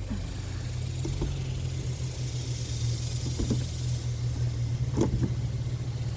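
A part being fitted back into an open Coleman rooftop RV air conditioner: a few short knocks and clicks, the loudest pair about five seconds in, over a steady low hum.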